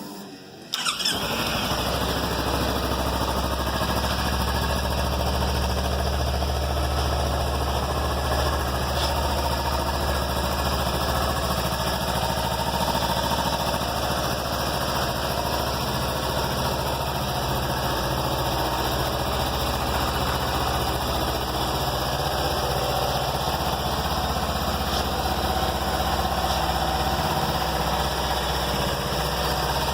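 Kawasaki Ninja 300's parallel-twin engine starting up about a second in and then idling steadily.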